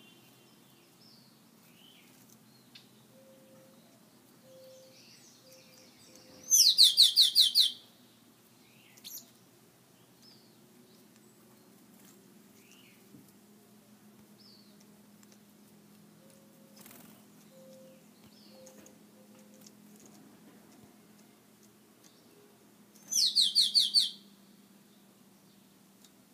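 Finches calling: two loud, fast trills of about eight high notes each, one about six seconds in and one near the end, with faint short chirps in between.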